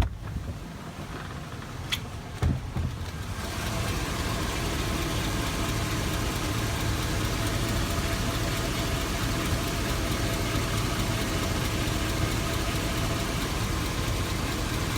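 A 2002 Chevy Avalanche's 5.3-litre V8 idling with a ticking that the owner takes for a cracked exhaust manifold, or perhaps worn valve guides. A few clicks and a thump come in the first seconds, then the engine sound grows louder and holds steady.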